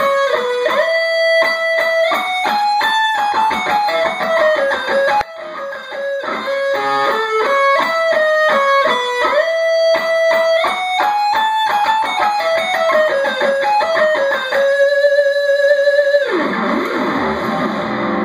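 Electric guitar with Seymour Duncan Blackout active pickups, played through a small practice amp on the neck pickup: fast single-note lead runs climbing and falling in pitch, with a held note wavering in vibrato about fifteen seconds in, then a rougher, less clearly pitched passage near the end.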